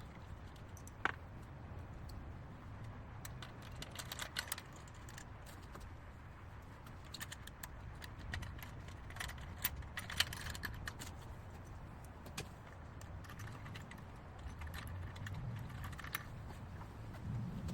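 Scattered light clicks and taps of tools and small parts being handled while the old Delta jointer is reassembled, over a low steady rumble.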